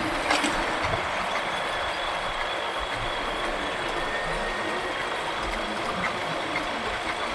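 Motorcycle riding in city traffic: steady engine and road noise heard from the moving bike, with a brief sharp click just after the start.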